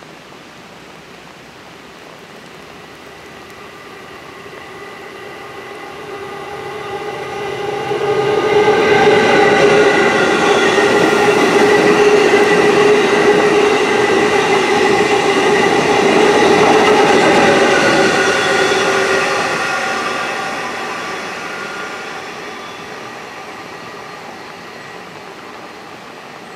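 Electric passenger train passing at speed: it builds from about six seconds in, is loudest for roughly ten seconds with a steady whine of several tones over rail and wheel noise, then fades away.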